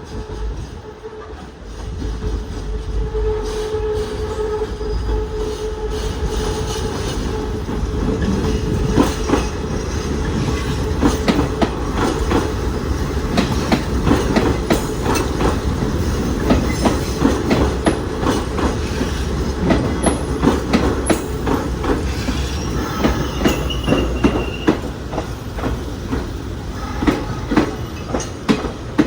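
Hanshin 8000 series electric train pulling into a station: a steady hum and rumble as it approaches, then its wheels clattering over rail joints and points in a long run of sharp clicks, with a brief high squeal about three-quarters of the way through.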